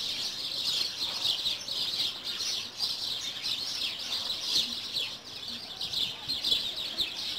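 Many small birds chirping at once in a steady, dense chatter of short high notes.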